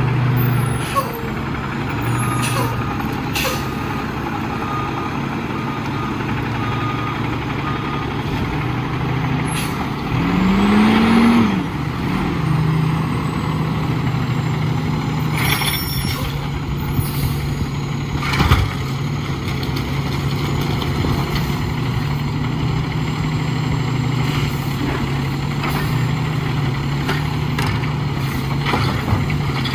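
Diesel engine of an Autocar WXLL garbage truck running steadily, revving up and back down once about ten seconds in, with several sharp clanks and knocks from the truck along the way.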